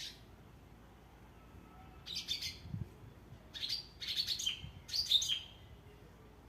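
A small bird chirping in three short bursts of quick, high notes, about two, three and a half, and five seconds in.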